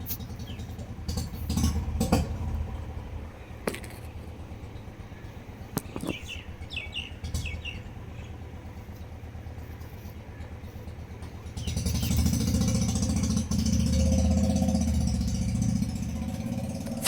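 A motor vehicle engine running steadily, with a few short bird chirps about six to seven seconds in. About twelve seconds in the engine sound grows louder, joined by a rush of noise, for several seconds.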